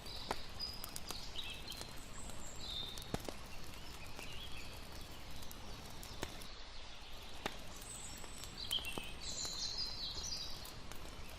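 Layered night ambience: a campfire crackling with irregular sharp pops over a steady low rush of water, with short chirping calls of night birds or insects coming and going.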